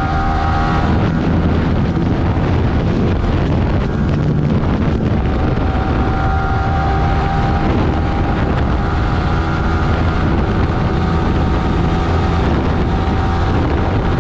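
Yamaha R15 V3's 155 cc single-cylinder engine running steadily through an aftermarket Akrapovic exhaust (not a full system) while riding, with wind buffeting the microphone.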